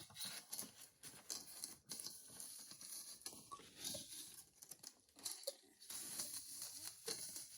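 Packaging being handled and torn open, quiet rustling and crinkling with scattered small clicks, as a small product is unwrapped.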